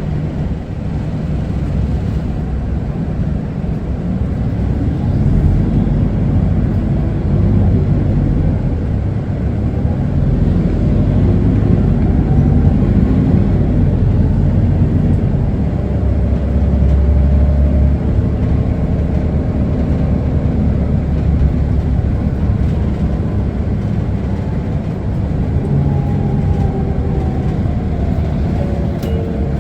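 Isuzu Erga city bus driving, heard from inside the cabin: a steady low diesel and road rumble, with faint whines rising and falling in pitch as the bus speeds up and slows.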